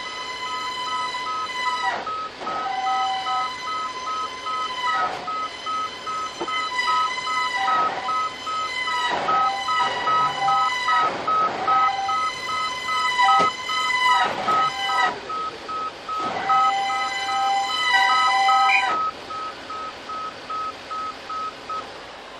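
A horn sounding in repeated long and short blasts, over a steady fast electronic beeping; the horn stops a few seconds before the end and the beeping just before it.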